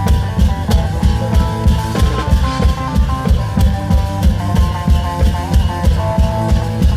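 Isan klong yao long-drum band playing loud, up-tempo music: a steady pounding beat of long drums and bass drum under a plucked string melody.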